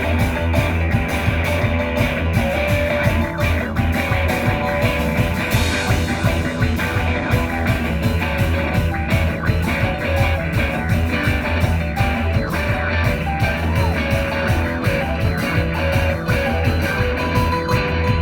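Live rock band playing a guitar-led jam, with electric guitar over bass and drums keeping a steady beat.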